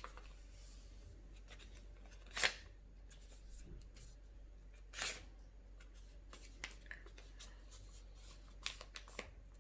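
A sheet of paper being folded and creased by hand: two short rustling swishes, about two and a half and five seconds in, with a few light paper taps between them.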